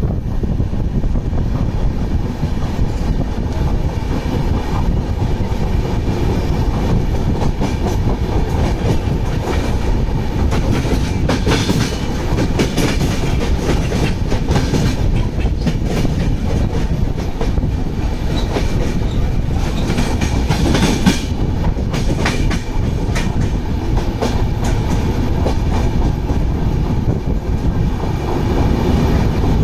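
Two passenger trains crossing at speed, heard from the open door of one: the steady rush and rumble of the other train's coaches going by close on the next track, with fast clickety-clack of wheels over rail joints that bunches up twice, around the middle and about two-thirds of the way through.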